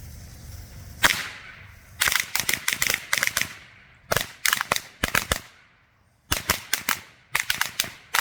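A string of Black Cat Lady Finger firecrackers going off: a single bang about a second in, then rapid, irregular strings of sharp bangs in three clusters separated by brief pauses.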